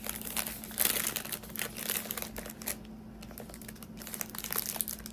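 Plastic packaging crinkling and rustling as it is handled, in irregular crackles, loudest about a second in.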